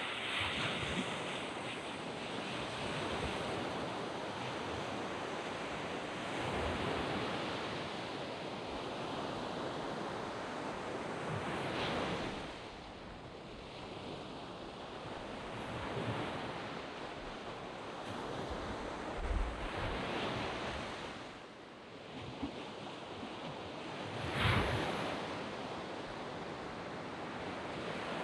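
Surf on a sand beach: a steady wash of waves, with louder breakers about a third of the way in, again about two-thirds in, and most strongly near the end.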